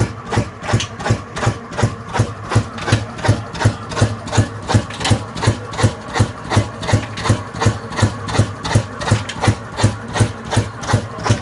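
Old black slow-speed diesel engine of the kind used to drive a tube well, running steadily at low speed with an even, heavy beat of about three firing strokes a second.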